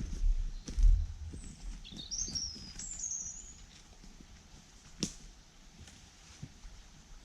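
Low thuds in the first second, then a small bird singing a short phrase of high, rising and falling chirps about two seconds in. A single sharp click comes about five seconds in, over faint woodland background.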